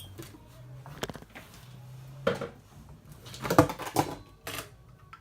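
Plastic LEGO pieces clicking and rattling as they are handled and pressed together, with a tire being fitted. There are a handful of sharp clicks, and a cluster about three and a half seconds in is the loudest.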